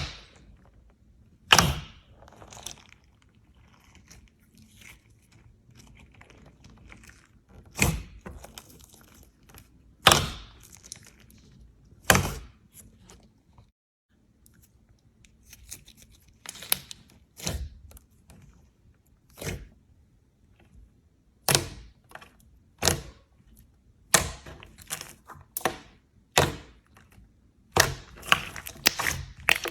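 Slime being pressed and squeezed by hand, giving sharp pops and clicks at irregular intervals, several seconds apart at first and coming faster near the end, with faint crackling in between.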